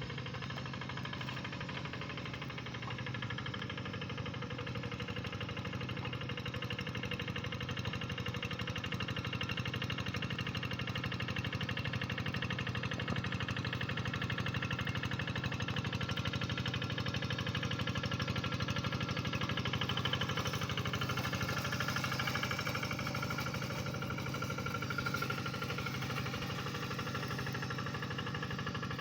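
Tractor engine running steadily with a rapid knocking beat.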